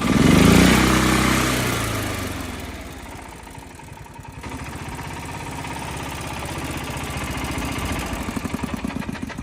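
Kubota GH340 single-cylinder petrol engine revved sharply, its speed falling back over about two seconds. It then runs at low speed with an even beat that grows a little louder and lumpier near the end.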